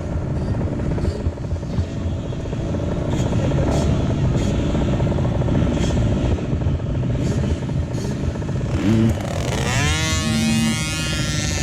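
Motocross dirt bike engines running, with one bike revving hard near the end, its pitch rising steeply.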